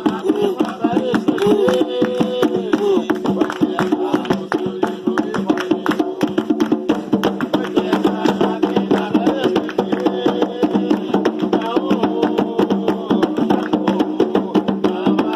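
Atabaque hand drums playing a fast, steady rhythm for an Umbanda ponto, with voices singing along.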